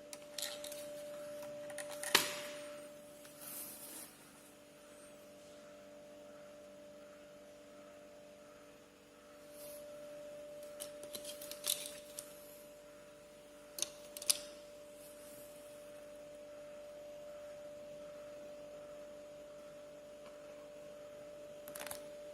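Scattered light clicks and rubs of plastic action-figure kit parts being handled, over a steady hum.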